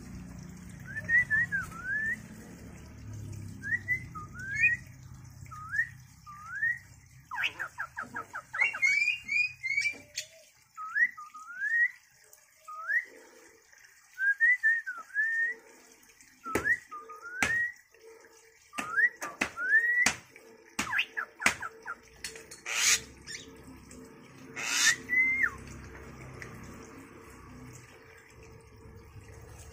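Repeated short rising whistles, one after another with brief gaps, some hooked up at the end, with a quick run of clicks about eight seconds in and several sharp noisy bursts in the second half.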